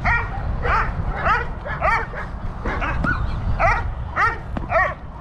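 Protection-trained Dobermann barking steadily, about one bark every half-second to second, over a constant rumble of gusty wind on the microphone.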